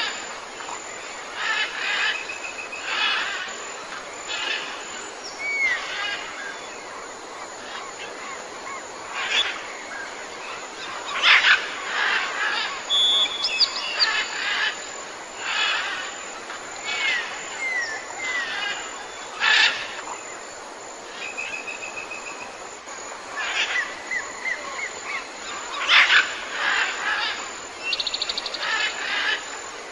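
Jungle birds calling over one another, a call every second or two: short whistled glides, sharp calls and, near the end, a fast trill, over a steady background hiss.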